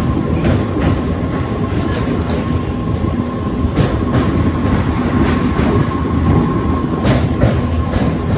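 Electric suburban local train running at speed: a steady rumble with irregular wheel clicks over the rail joints and a faint steady whine.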